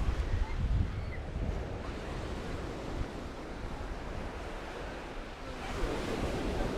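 Sea surf washing on a sandy beach, with wind buffeting the microphone in the first second. The surf swells again near the end.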